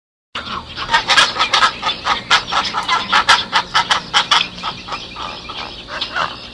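Chickens clucking: a dense run of short, sharp calls, several a second, starting abruptly about a third of a second in.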